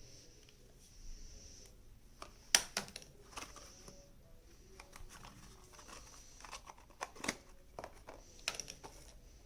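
Scattered clicks and light rustling from handling a Stanley Tough Case tape measure and its packaging, with the sharpest click about two and a half seconds in.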